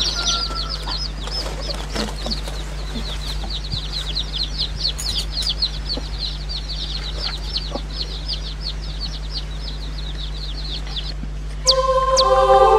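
A bird chirping over and over, short high-pitched calls several a second, over a steady low hum. Near the end the chirping stops and music begins.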